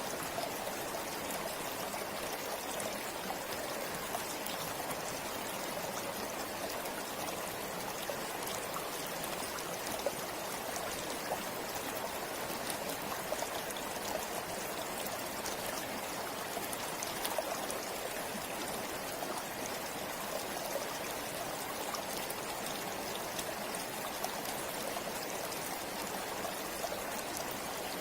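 Forest river running steadily over rocks, a continuous rush of water with small splashes and trickles through it.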